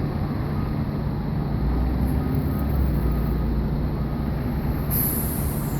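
A fire engine's diesel engine idles with a steady low rumble. A high hiss comes in near the end.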